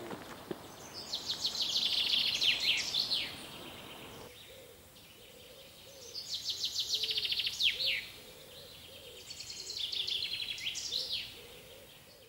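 A songbird singing three phrases a few seconds apart, each about two seconds of rapid repeated high notes ending in a couple of quick falling notes, over steady outdoor background noise that drops away about four seconds in.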